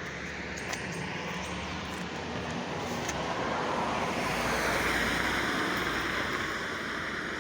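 A motor vehicle passing on the street: tyre and engine noise swells to a peak about five seconds in, then fades.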